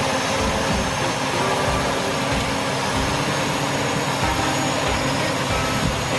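Semi truck's engine running steadily, under a constant rushing noise.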